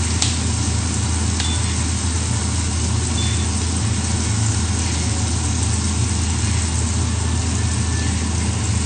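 Onion and garlic frying in butter in a wok, a steady sizzle over a constant low hum, with a brief click just after the start.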